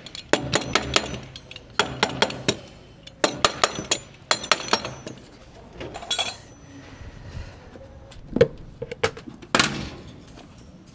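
Hand-tool work on plumbing fittings: four quick runs of sharp, clinking taps in the first five seconds, then a few single knocks spread out toward the end.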